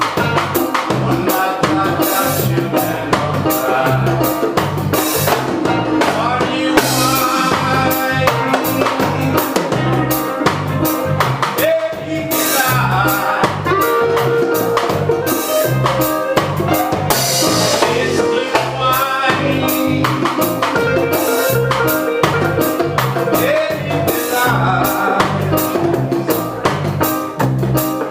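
Live roots reggae band playing: drum kit, bass and other instruments in a steady groove.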